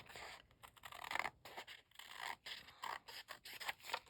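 Scissors cutting the excess paper from the edge of a glued-down journal page: a series of about five scratchy cuts through the paper.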